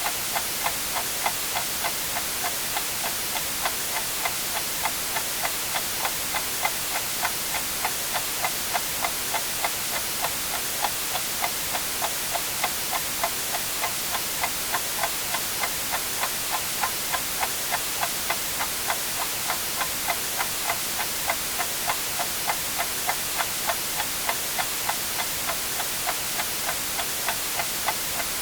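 Clock ticking steadily, about two ticks a second, over a continuous white-noise hiss.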